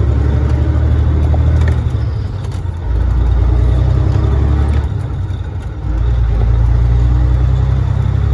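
Caterpillar 3406E diesel engine of a Freightliner FLD120 semi truck running under load while driving, its deep steady drone easing off twice for about a second, around two and five seconds in, then pulling again.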